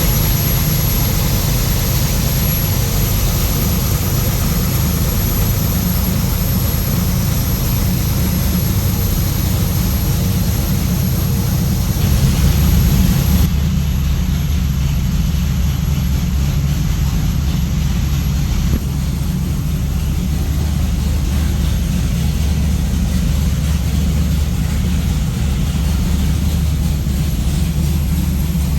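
Custom Schumaker Racing 598-cubic-inch, 760 hp big-block V8 with Stelling headers, running steadily on a propshaft dyno. The level rises briefly about twelve seconds in.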